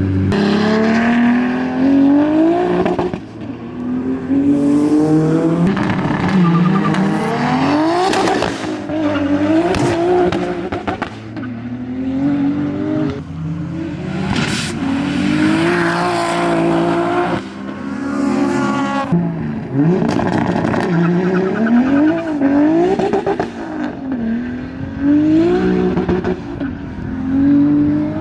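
Toyota Supra's exhaust under hard acceleration: the engine note climbs again and again through the gears, each rise broken by a quick drop at the shift. Sharp cracks come in at several of the shifts.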